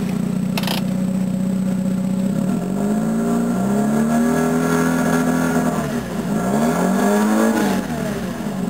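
Mazda 12A two-rotor rotary engine idling, then revved twice: the first rev is held high for a couple of seconds, the second is shorter, and each time it drops back to idle.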